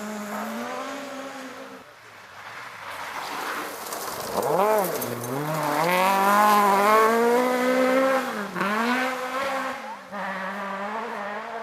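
Rally car engine at full throttle on a forest stage: one car fades away, then a car comes through loud, revving hard with a sharp blip about four and a half seconds in and dips in pitch at gear changes near the end.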